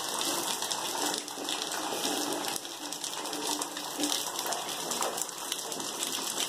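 Heavy rain falling steadily, a dense hiss with the fine patter of countless drops striking roofs and ground.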